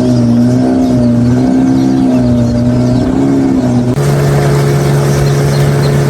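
An engine running at a steady speed, its pitch wavering slightly. About four seconds in, the sound changes abruptly to a lower, steadier engine note.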